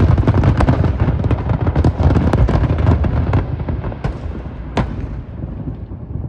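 Aerial fireworks going off in a dense run of overlapping bangs and crackle, thinning out after about three and a half seconds, with one last sharp bang near five seconds before dying away.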